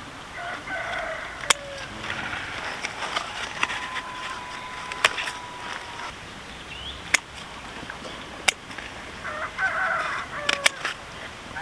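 Roosters crowing, with one long, drawn-out held crow in the middle. About five sharp clicks are spread through, a second or more apart.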